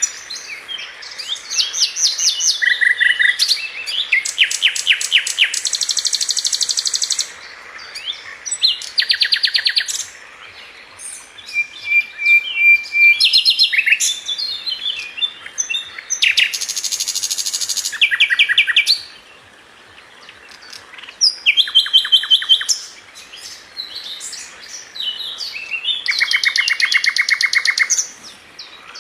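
Sikatan London, a small flycatcher, singing: high-pitched phrases of fast repeated notes and rattling trills mixed with short chirps, each phrase lasting a second or few, with short pauses and a longer lull about two-thirds of the way through.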